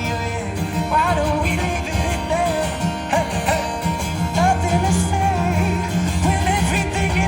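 Live pop song at a concert: a male singer's wavering melody over a full band with guitar and a heavy, steady bass, recorded from the crowd.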